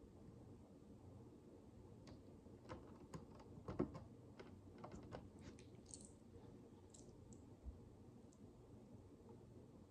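Faint small plastic clicks and taps of micro building bricks being handled and pressed together, a loose scatter of them through the middle, the loudest a little under four seconds in.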